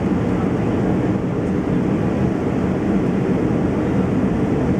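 Steady cabin noise inside an Airbus A320-200 in flight: an even rumble of airflow and engines, heaviest in the low range, with no change through the stretch.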